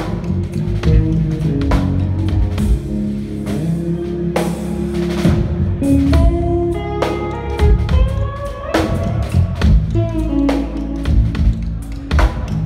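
Live band jam: electric guitar playing a lead line of held notes with pitch bends over a drum kit.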